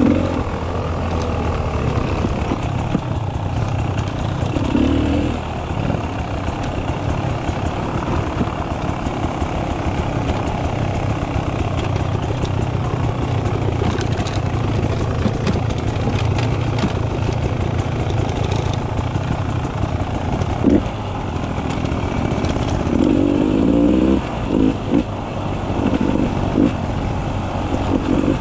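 Beta 300 RR two-stroke enduro motorcycle engine running continuously under changing throttle while riding single track, with several short louder moments in the last few seconds.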